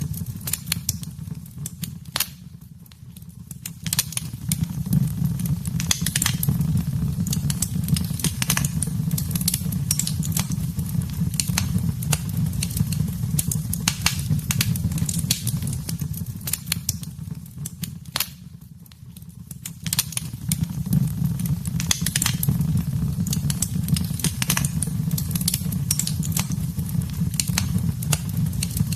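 Wood fire burning in a fireplace: a steady low rumble of flames with frequent sharp crackles and pops, easing off briefly twice, about three seconds in and again about nineteen seconds in.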